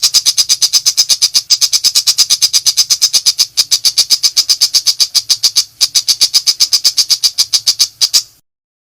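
Shrike (pentet) in a rapid-fire burst of harsh, high notes, about eight or nine a second, with brief breaks every couple of seconds, stopping shortly before the end.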